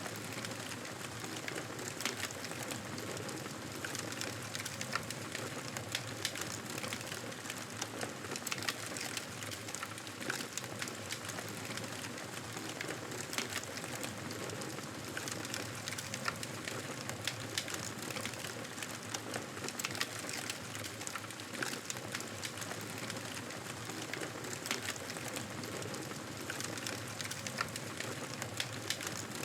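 Wood fire crackling steadily: a continuous low hiss with frequent sharp pops and snaps scattered throughout.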